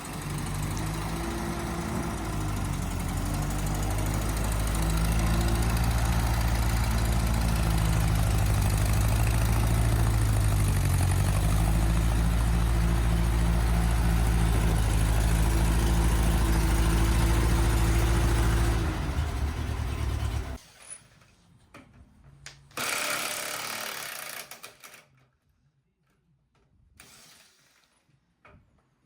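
Ferguson TE20 tractor engine running steadily, its pitch dipping briefly and recovering about a third of the way in, then shutting off about two-thirds of the way through. After it stops, two short bursts of hissing mechanical noise follow.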